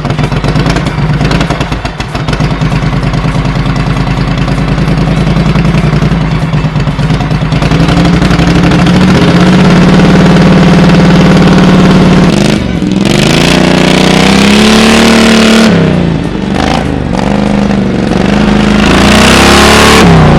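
Engine running loud and close, its firing pulses plain at first, then revving up and held high. It drops back sharply twice and climbs again each time.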